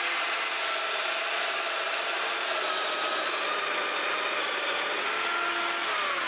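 A woodworking power tool running steadily while cutting mortises in wood, with a faint whine that drops in pitch near the end.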